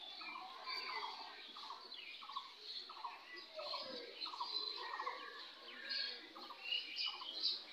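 Birds chirping and calling, many short overlapping calls at a low level.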